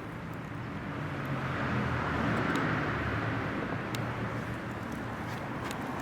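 Honda CBR400F's inline-four engine running through a full BEET exhaust system, growing louder over the first couple of seconds and then easing off slightly.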